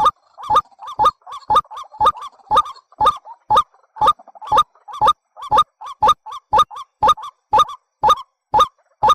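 A bird's call of short, sharp notes repeated at an even pace of about two a second, a looped lure call of the kind played to trap birds.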